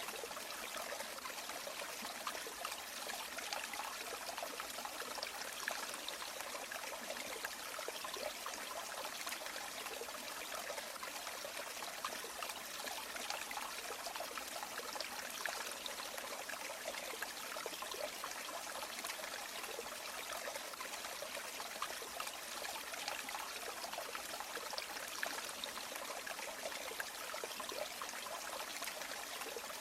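River water flowing steadily: an even, unbroken rush with many small splashes and trickles, and little deep rumble.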